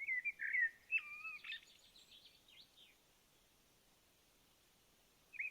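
A songbird singing: a phrase of whistled, sliding notes, then a quick run of short notes that fades out about three seconds in, with the next phrase starting near the end.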